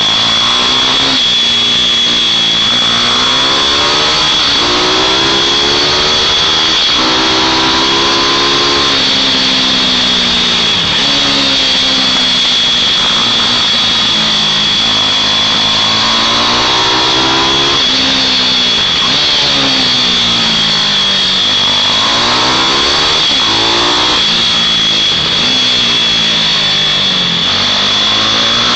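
Small mini bike engines racing, revving up and falling back over and over as they take the turns. At times two or more bikes are heard at once.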